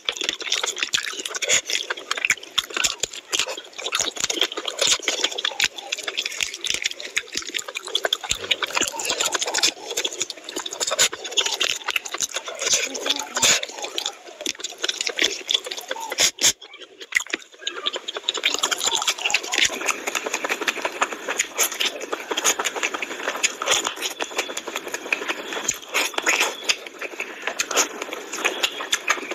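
Close-miked eating sounds: wet chewing and lip smacking on mouthfuls of curry and rice eaten by hand, then of meat, as a dense run of sticky clicks. There is a brief break about seventeen seconds in.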